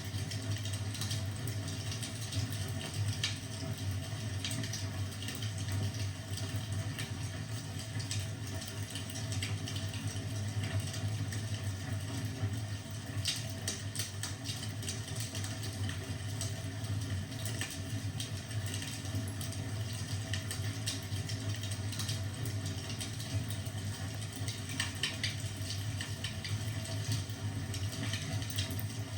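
Fire crackling in a fireplace: scattered sharp snaps and pops over a steady low rumble.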